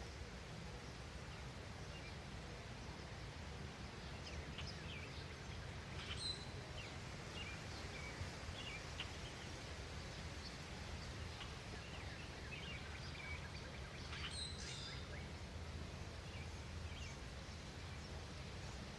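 Outdoor nature ambience: small birds chirping and calling in short scattered bursts, with a cluster of calls about a third of the way in and another about three quarters through, over a steady low background rumble.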